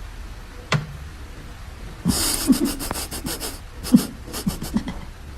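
A pet breathing hard in quick rasping bursts with short low grunts, starting about two seconds in after a single click.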